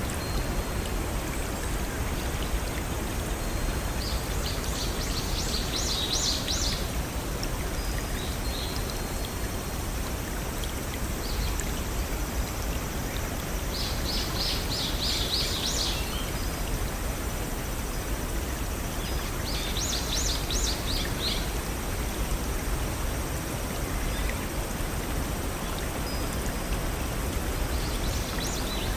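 Steady rushing of a small waterfall or brook, with a songbird singing a quick burst of high notes three times and again near the end.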